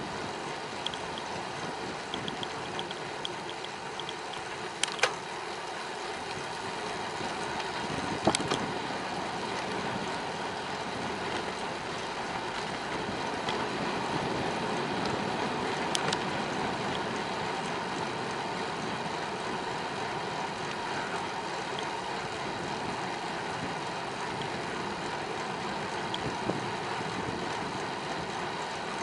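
Steady road noise of a bicycle being ridden: an even hiss of tyres and rushing air, with a few sharp knocks about 5 and 8 seconds in and again around 16 seconds.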